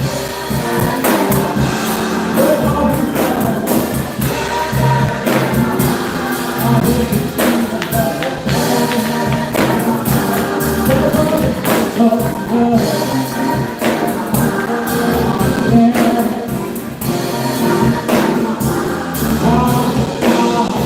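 Gospel music: singing with a choir, tambourine and a full band with drums.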